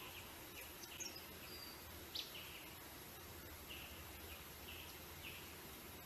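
Small birds giving a series of short, soft high chirps, with one sharper, louder note about two seconds in, over a steady background hiss.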